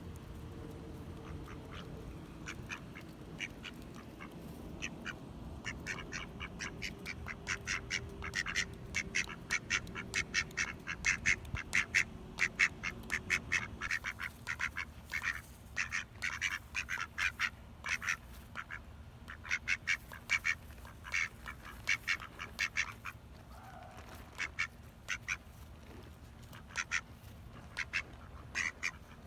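Ducks quacking in fast runs of short, rapid calls, loudest about ten to thirteen seconds in, then in scattered bursts. A low rumble lies under the calls during the first half.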